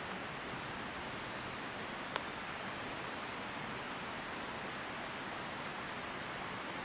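Steady outdoor rushing noise with one sharp click about two seconds in and a few faint, high, bird-like chirps.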